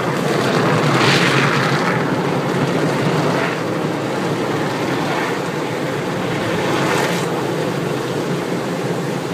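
Automatic car wash machinery running over the car: a steady rumble with repeated swelling whooshes of spray or brushes sweeping past, about a second in, around three and a half, five and seven seconds.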